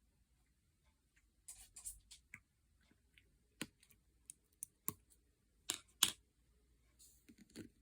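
Slime being pressed and played with by hand, giving scattered sharp clicks and pops, a quick run of small ones and then a few louder single ones.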